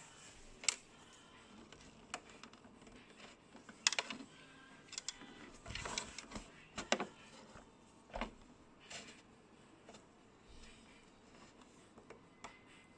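Scattered light clicks and short rustles at irregular intervals, the sound of hand work with fabric and small tools rather than the sewing machine running.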